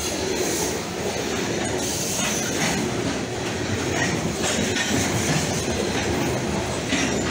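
CP Rail freight train of covered hopper cars rolling past close by: a steady rumble and clatter of steel wheels on the rails, with brief high-pitched wheel squeals now and then.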